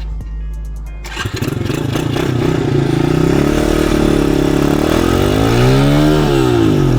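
Dirt bike engine running after kick-starting, then revved: the pitch climbs from about three seconds in, peaks near six seconds and drops back near the end. The engine has not been run in a while.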